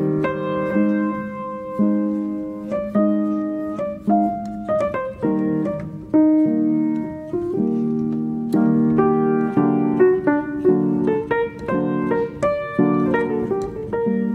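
Background piano music: a melody of separate struck notes over chords, each note starting sharply and fading.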